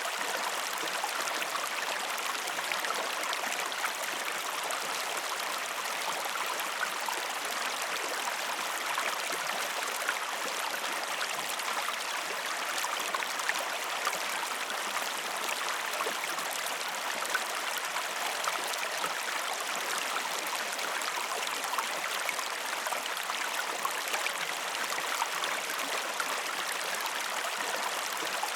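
Steady running water: an even rush with fine splashing, unbroken and unchanging.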